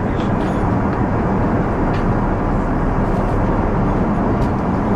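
Steady noise of engines and airflow inside the cabin of an Airbus A380-800 in flight.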